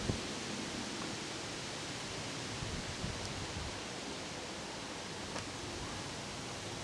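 Strong summer wind, about 40 mph, rushing steadily through trees as an even hiss.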